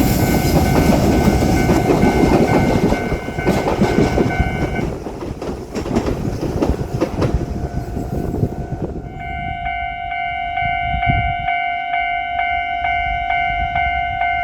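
Kotoden electric train rumbling and clattering over a level crossing, dying away about nine seconds in, while the crossing's warning bell rings. Once the train has gone, the bell is heard clearly, ringing evenly about twice a second.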